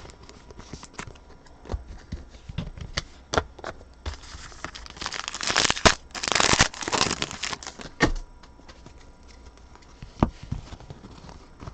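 A trading-card pack wrapper being torn open and crinkled, with a dense burst of tearing and crinkling in the middle, amid scattered clicks and rustles of cards being handled.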